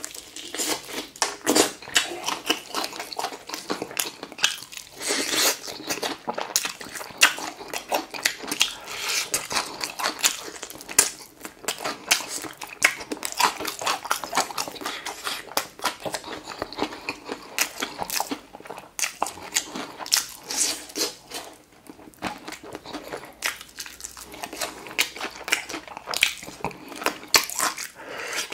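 Crispy fried chicken being bitten and chewed: many crunches of the battered crust in quick, irregular succession.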